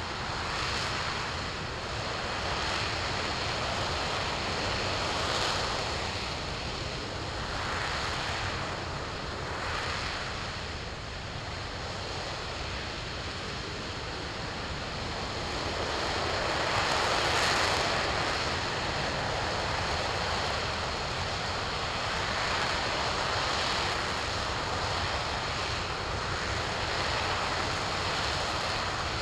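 RS-25 liquid-hydrogen rocket engine firing on a test stand during a hot-fire test: a steady, noisy rumble that swells and eases every few seconds.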